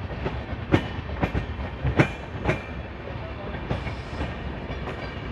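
Passenger train running, heard from inside a sleeper coach: a steady rumble with the wheels clicking over rail joints in pairs about half a second apart.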